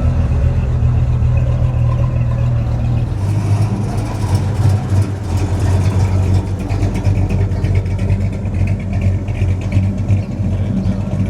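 Car engine idling loudly, its low note stepping up slightly about three seconds in.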